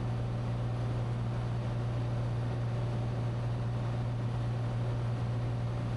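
Steady drone of a Cessna 182T's six-cylinder piston engine and propeller in flight, heard inside the cabin: a constant low hum over an even rush of air noise.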